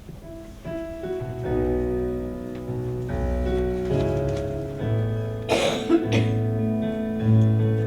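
Live worship band starting a contemporary song without singing: held keyboard chords come in about half a second in, and bass notes join about a second and a half in. A brief noisy swell sounds about five and a half seconds in.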